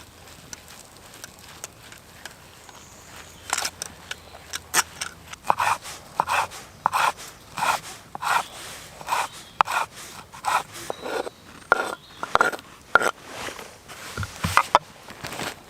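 A hand tool working wood in repeated scraping strokes, about one and a half a second, starting a few seconds in and running on to near the end.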